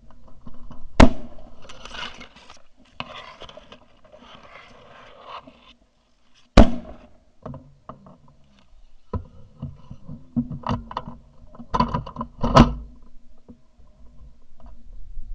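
Shotgun blasts at incoming snow geese: a loud shot about a second in, another about halfway through, and a quick pair near the end, with scattered fainter shots between. Snow geese call in the stretch after the first shot.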